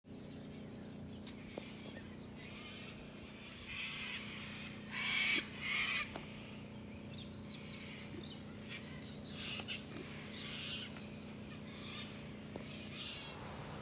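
Birds calling: a series of short calls, the loudest two about five and six seconds in, over a steady low hum.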